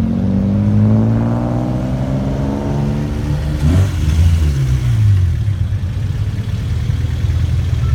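A car engine revving. Its pitch eases down over the first three seconds, then comes a second, shorter rev about four seconds in that falls away. After that the engine settles into a steady run.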